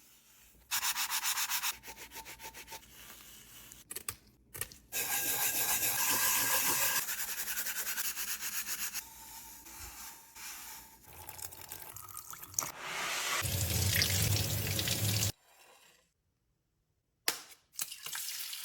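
Scrubbing and rubbing on a hard surface in quick repeated strokes, heard in several short stretches that start and stop abruptly, with a low hum under one stretch and a second or so of dead silence near the end.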